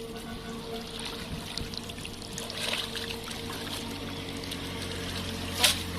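Water trickling and sloshing around a small boat, over a steady low hum. There is one sharp slap or splash near the end.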